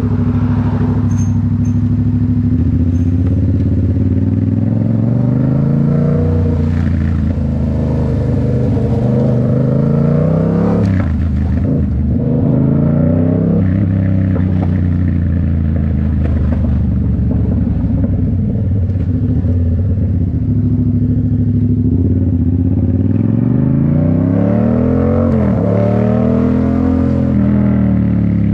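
2019 Yamaha MT-07's parallel-twin engine through a Toce full exhaust, under way on the road. Its pitch climbs and falls back several times between steadier stretches of cruising.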